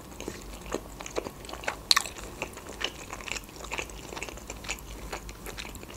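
Close-miked chewing of pelmeni (meat dumplings): soft, wet mouth clicks and smacks, irregular and a few a second.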